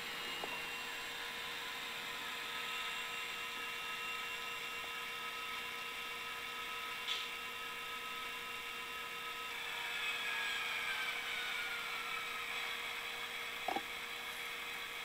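Sound decoder playing a recorded EMD 645 diesel prime mover through tiny speakers, a steady engine drone with a high whine; about ten seconds in its pitch shifts and slides downward. Two light clicks are heard, one about halfway through and one near the end.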